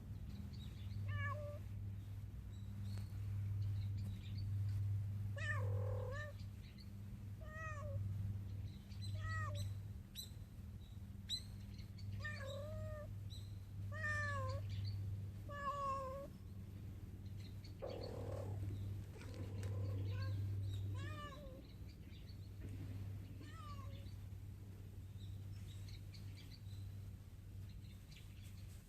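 Mother cat calling her kitten to come and eat: a long series of short meows, each rising and falling in pitch, about one every one to two seconds, stopping a few seconds before the end. A steady low hum runs underneath.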